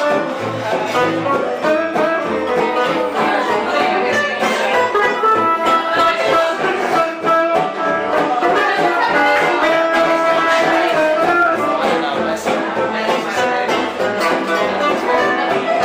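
Live band music: an ensemble playing a lively tune, with melody instruments over a steady rhythm.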